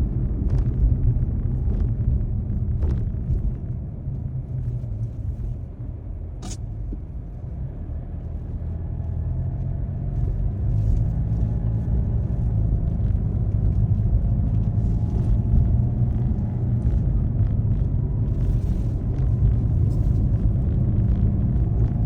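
Car driving on a snowy road, heard inside the car: a steady low rumble of tyres and engine that eases off for a few seconds about a quarter of the way in, then builds back up. Scattered ticks and one sharp click about six and a half seconds in.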